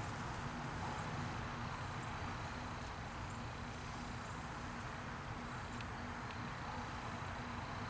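Steady low electric hum with a faint constant high whine, unchanging throughout.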